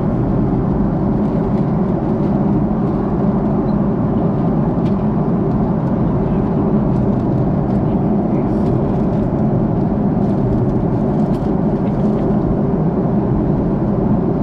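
Steady cabin noise of an Airbus A330-300 in flight, the engines and airflow heard from a window seat, with a few faint clicks.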